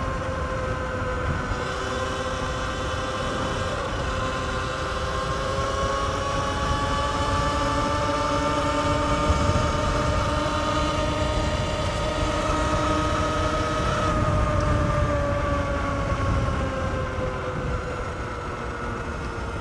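Sur-Ron X electric dirt bike's motor whining under way, its pitch rising slowly as it gathers speed and falling again near the end, over a low rumble.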